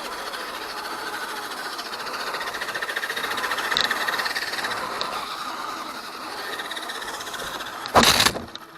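Electric RC crawler's motor and gears whining steadily as it drives, louder around the middle. A brief loud burst comes near the end.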